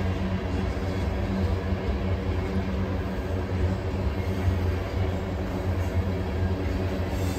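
BNSF coal train rolling past: a steady low rumble of freight cars and wheels on the rails.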